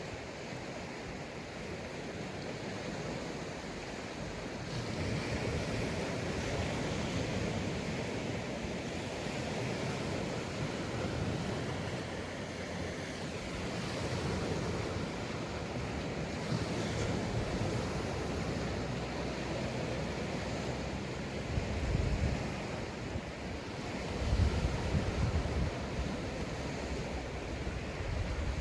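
Sea waves breaking and washing onto a beach in a continuous surf wash, with low gusts of wind buffeting the microphone now and then, strongest about three-quarters of the way through.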